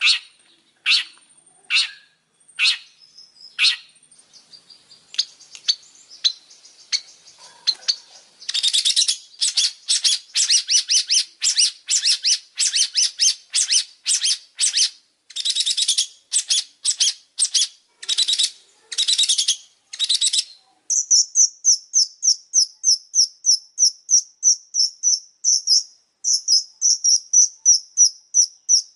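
Long-tailed shrike singing: a few sharp, separate calls about a second apart, then long runs of rapid, harsh chattering notes, switching about two-thirds of the way through to a quicker, higher series of repeated notes.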